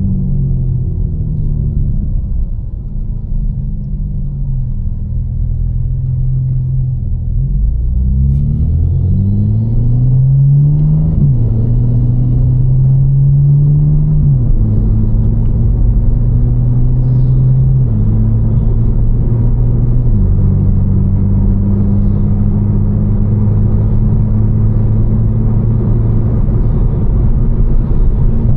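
Tuned BMW M4 twin-turbo inline-six with catless downpipes and an Fi exhaust, heard from inside the car. It slows for the first several seconds, then accelerates through the gears with upshifts at about 14, 18 and 20 seconds, and settles into a steady cruise.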